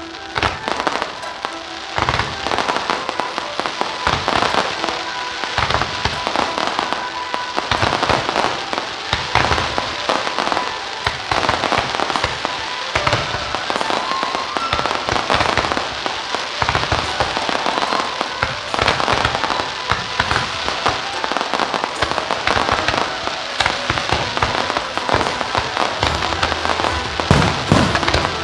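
Aerial fireworks display: shells bursting and crackling in a dense, continuous barrage, with music playing underneath.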